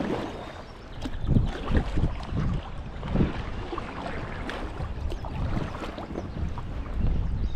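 Kayak on moving river water: uneven splashing from paddle strokes and water against the hull, with wind buffeting the microphone.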